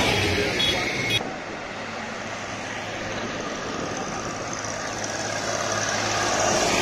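Tractor engines running over road noise. The sound changes abruptly about a second in, then a steady low engine hum grows louder toward the end, like a tractor drawing closer.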